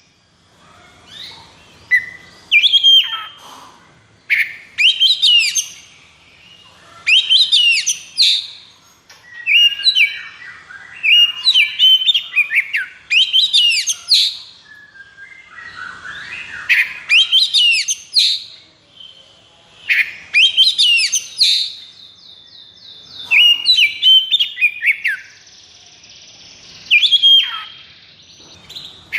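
Oriental magpie-robin (kacer) singing a loud, unbroken string of short whistled and chattering phrases, about one every one to two seconds, with a quick rattling run of repeated notes a little past two-thirds of the way through. This is the 'konslet' song of a highly aroused, aggressive male in fighting mood.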